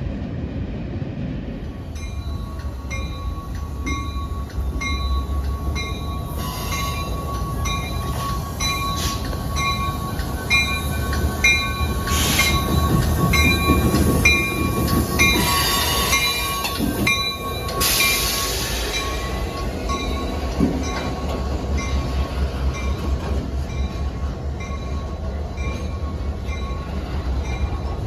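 Passenger train running on the rails: a steady low rumble with a steady high whine, and a short high ringing tone repeating about every three-quarters of a second.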